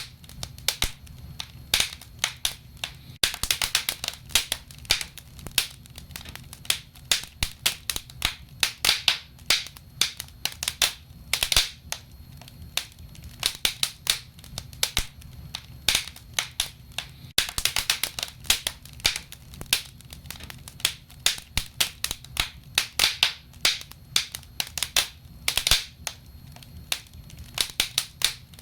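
Wood fire crackling, with irregular clusters of sharp pops and snaps from the burning logs over a low steady rumble.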